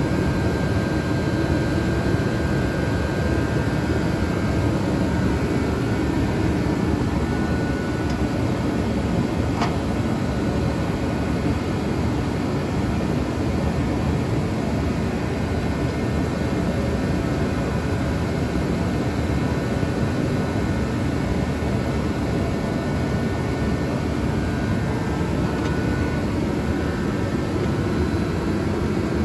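Steady, even rushing noise with a low rumble and a faint thin whine, unchanging in level.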